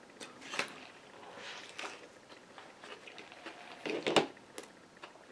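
A person chewing a mouthful of chicken sandwich and waffle fries close to the microphone: soft, irregular wet mouth and crunch sounds, with a brief cluster of louder clicks about four seconds in.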